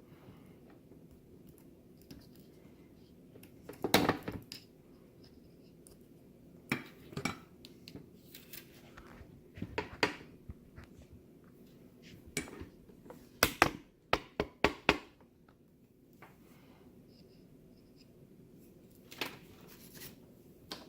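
Small hard parts and tools being handled on a workbench: scattered clicks and clatters, the loudest about four seconds in and a quick cluster around two-thirds of the way through, over a faint steady hum.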